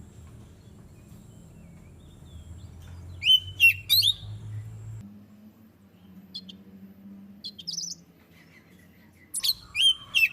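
Oriental magpie-robin (kacer) song: loud clusters of sharp, upward-sweeping whistled notes about three seconds in and again near the end, with softer chirps between. A low steady hum runs underneath.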